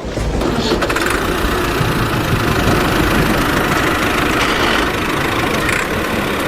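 An engine running steadily with a dense low rumble, cutting in abruptly at the start.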